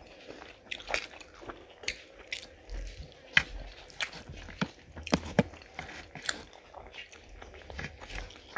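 Close-miked wet chewing and smacking of mouths eating rice and curry, with irregular sharp mouth clicks, several a second.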